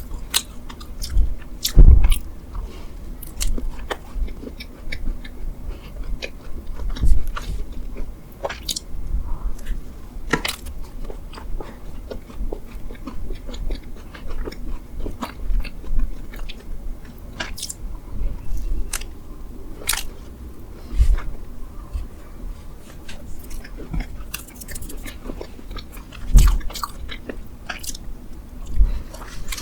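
Close-miked chewing and biting of mammoth bread: irregular wet mouth clicks and smacks, with a few louder bites standing out.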